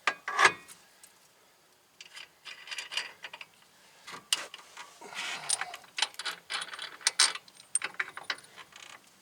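Metal clanks, clicks and scrapes of hand tools and suspension parts being worked on during axle reassembly, with a sharp knock about half a second in.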